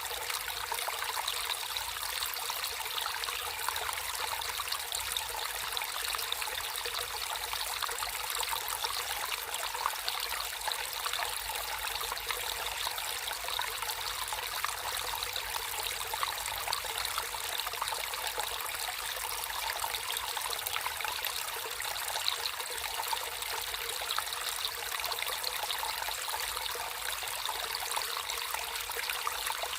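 Natural stream water flowing and trickling steadily, a bright rushing sound with many fine splashes and little deep rumble.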